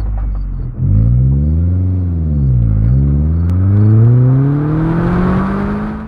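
Car engine heard from the car's side as it drives off. The revs rise and fall within the first three seconds, then climb steadily, with road and wind noise growing as it picks up speed.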